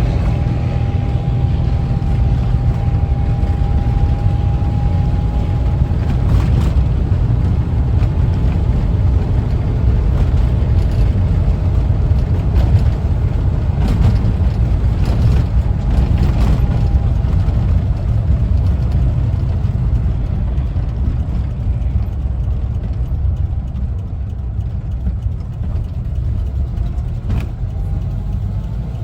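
1974 Volkswagen Westfalia camper bus under way: its air-cooled flat-four engine drones steadily under road rumble, with a few short knocks and rattles along the way. It eases off slightly in the last several seconds.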